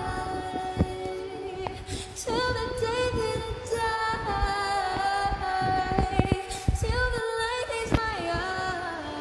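Background music: a woman singing long, wordless held notes that slide between pitches, with a few short knocks or taps scattered through.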